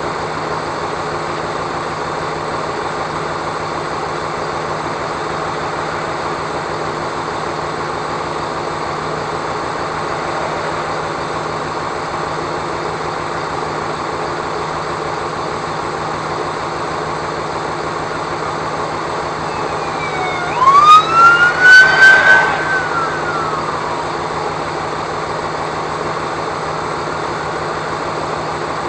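Steady vehicle engine and road noise with a constant low hum. About twenty seconds in, a siren sounds briefly, its pitch rising, holding and falling over about three seconds, with several loud sharp blasts at the same time.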